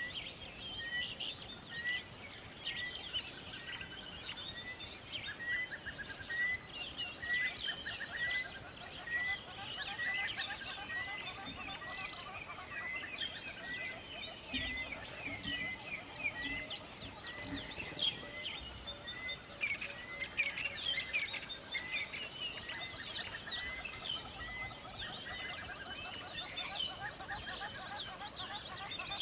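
A chorus of many small songbirds chirping and trilling over one another, with one bird repeating a short note about one and a half times a second.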